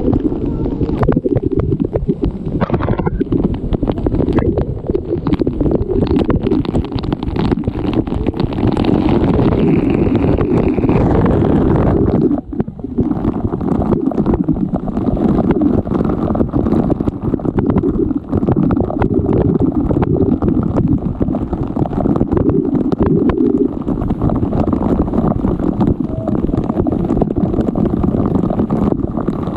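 Loud, muffled rumbling rush of falling water buffeting the microphone, with constant jolts; the hiss above it thins out about twelve seconds in.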